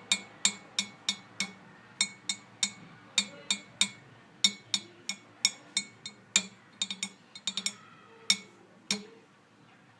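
Sharp percussive taps in a steady rhythm, about three a second, each with a brief ring. There are quick double and triple taps about seven seconds in, and the last tap falls about nine seconds in.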